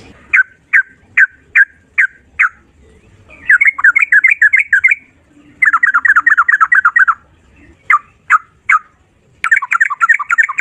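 Trucukan (yellow-vented bulbul) singing loudly. A string of single clear notes is followed by fast rolling runs of rapid notes, the 'ropel' song, with three separate notes before a last run begins near the end.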